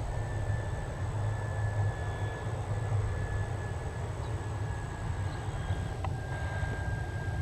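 Airbus A319 jet engines on its landing, heard as a steady low rumble with a faint high whine that dips slightly and then rises again near the end.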